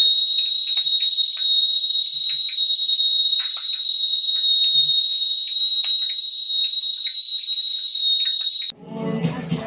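KAISA Villa 3.0 L stovetop whistling kettle whistling at the boil: one steady high tone with short sputters under it. It cuts off suddenly near the end.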